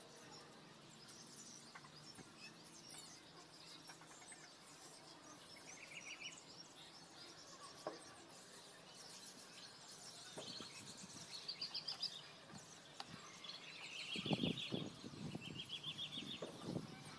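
Faint outdoor birdsong: small birds chirping and giving short, rapid trills, repeated several times. Near the end come a few low rustling knocks, louder than the birds.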